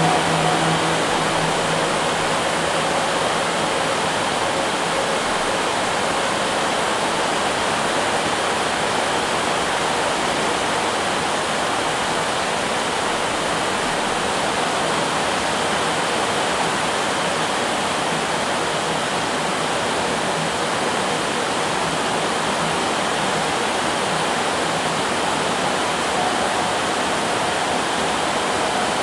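Heavy tropical downpour on corrugated metal roofs, with runoff pouring off the eaves: a steady, dense rushing hiss.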